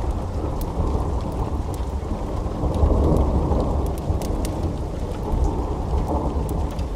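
Wood fire burning in a fireplace: a steady low rumble with scattered sharp crackles, swelling briefly about three seconds in.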